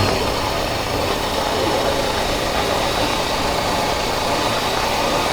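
Honda CB400X parallel-twin engine running steadily, heard from the rider's chest-mounted camera, with a constant rush of noise over it.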